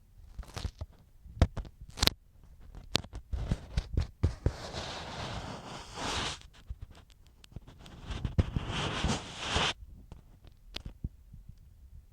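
Ear pick scratching and scraping in an ear, very close to the microphone: a run of sharp clicks and short scratches, with two longer scraping strokes, one about four seconds in and one about eight seconds in.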